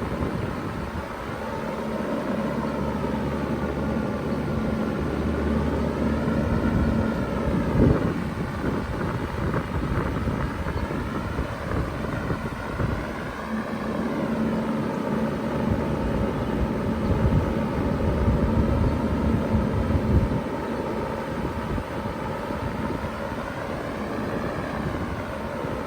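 2000 Bard 3-ton wall-hung heat pump running in cooling mode: a steady rush of fan air over the running compressor, with a low hum that fades in and out a few times.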